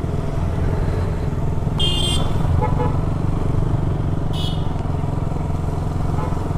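Motorcycle engine running steadily under way, with two short, high-pitched vehicle horn toots about two seconds apart.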